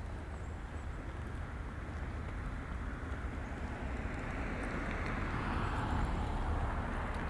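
A car passing on the street, its tyre and engine noise swelling to a peak about six seconds in, over a steady low rumble.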